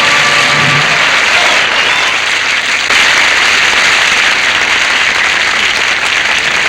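Studio audience applauding steadily, with the tail of the band's music fading out about a second in.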